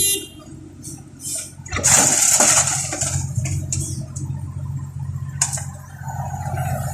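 Diesel machinery engine running steadily, with a loud watery rushing noise about two seconds in that lasts about a second, and a few shorter rushes around it.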